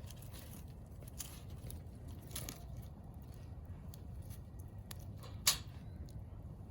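Quiet outdoor background with a steady low rumble, faint rustles and small clicks, and one sharp click or snap about five and a half seconds in.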